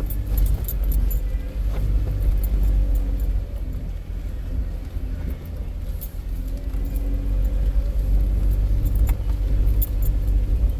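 Vehicle engine running with a steady low rumble while it drives a rough off-road trail, with scattered light rattles and clicks.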